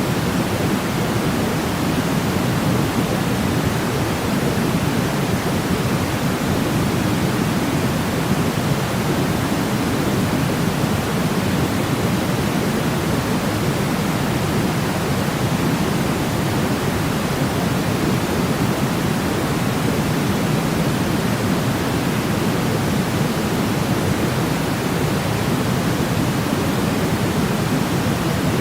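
Steady, unchanging sleep noise of the white-noise kind, deeper and softer at the top than pure white noise, closer to pink noise, with no rhythm or breaks.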